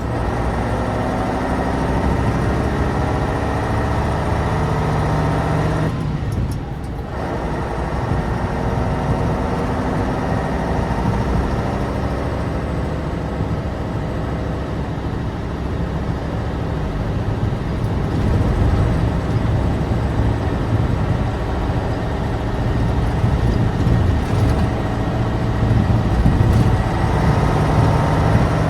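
Air-cooled, naturally aspirated V10 of a Tatra 815 dump truck running under way. The engine note breaks off briefly about six seconds in, as at a gear change, then pulls on and grows louder over the second half. It breaks again right at the end.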